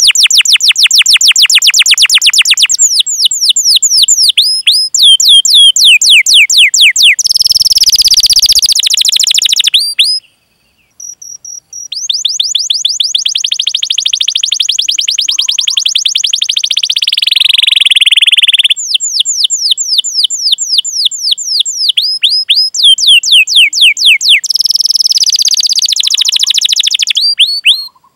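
Domestic canary singing: long, rapid trills of repeated downward-sweeping 'cuit cuit' chirps and rolled phrases, with a brief pause about ten seconds in.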